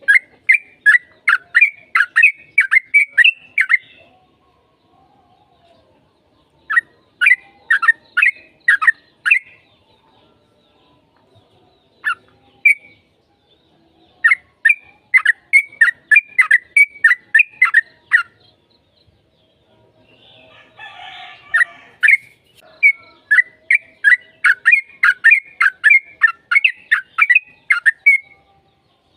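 Yellow-vented bulbul (trucukan) singing in rapid runs of short, bubbly notes, each note falling in pitch, about three notes a second; four long runs with pauses between them, the last the longest.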